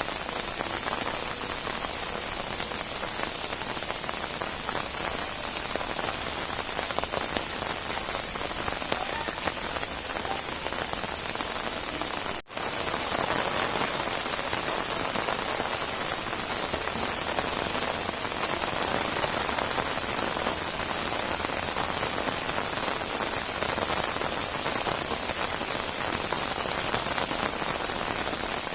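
Steady rain falling, a dense even hiss of drops. About twelve seconds in the sound cuts out for a split second, then returns a little louder.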